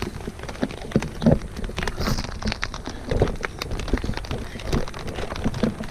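Rain falling on a tent: a dense run of irregular taps and clicks over a steady hiss.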